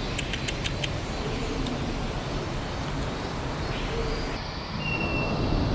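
Steady background hiss of an indoor rainforest exhibit with faint bird calls, including a short steady whistle near the end, and a quick run of about six clicks in the first second.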